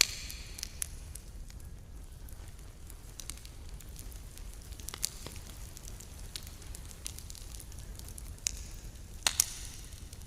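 Campfire crackling, with irregular sharp pops over a low steady rumble; a loud pop right at the start and a close pair of the loudest pops about nine seconds in.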